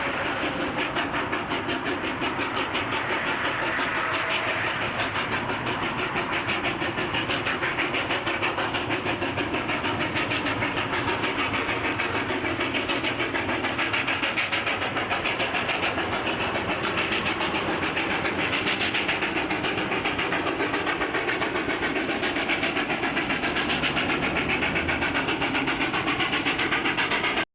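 Steam locomotive working along at speed, its exhaust beats coming as a fast, even pulsing over a constant din of running noise.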